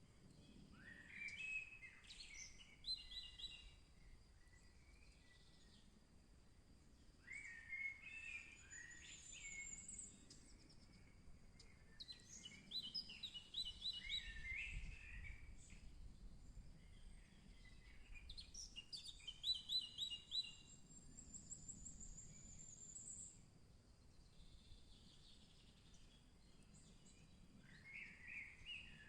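Songbirds singing in a forest: one bird repeats a varied song phrase lasting a few seconds, about every five or six seconds, while another gives a high thin trill now and then. Faint throughout, over a faint steady high-pitched hum.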